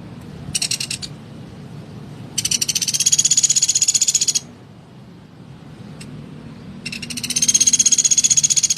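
Pelatuk beras woodpecker calling in rapid, high-pitched rattling trills: a short burst about half a second in, then two long trills of about two seconds each.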